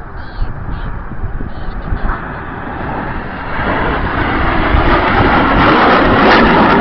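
Jet noise from the Red Arrows' BAE Hawk jets, a steady rushing sound that swells from about three and a half seconds in and is loudest near the end as the aircraft approach.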